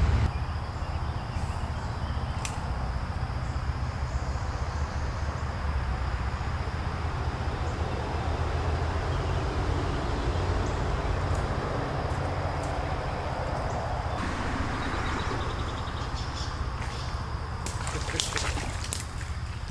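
Running creek water, a steady hiss over a low rumble, with a faint steady high tone above it. A few sharp clicks come near the end.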